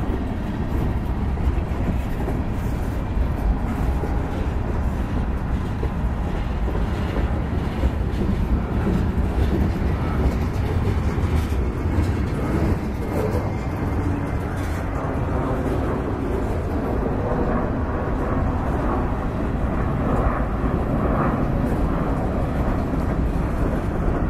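Freight cars of a mixed train rolling past: a steady rumble of steel wheels on the rails, with scattered clicks.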